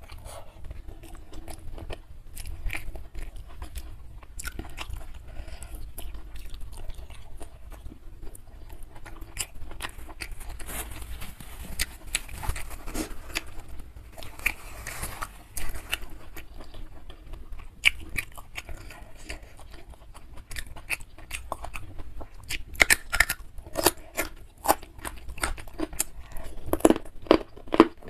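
Close-miked chewing of a mouthful of nasi padang (rice with grilled fish and curried liver and gizzard): wet smacking and small crunches, growing louder and quicker near the end.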